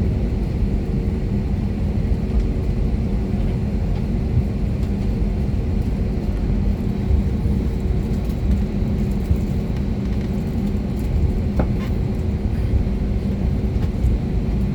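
Steady low rumble and hum heard inside the passenger cabin of an Airbus A320neo, from its CFM LEAP-1A turbofan engines running at low power, with no change in pitch or loudness.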